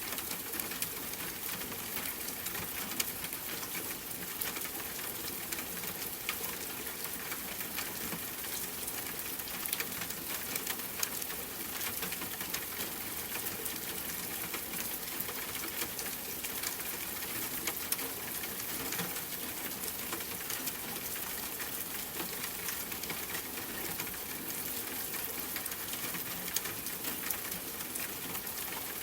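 Steady rain pattering, a dense even spray of small drop ticks with no letup.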